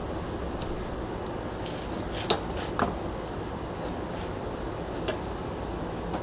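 Sharp metal-on-metal clinks during ceiling fan disassembly: a loud ringing clink a little over two seconds in, a second one half a second later, and a fainter one near the end, over a steady background noise.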